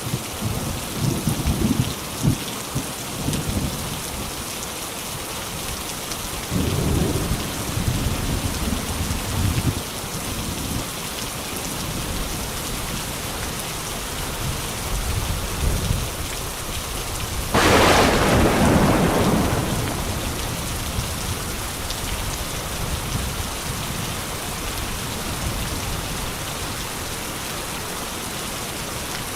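Steady rain falling through a thunderstorm, with several low rolls of thunder in the first third. A little past halfway a sudden, loud thunderclap cracks and fades over a couple of seconds.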